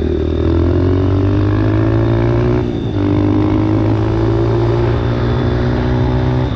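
Dirt bike engine running under throttle. Its pitch climbs slightly, drops briefly about three seconds in, then holds steady.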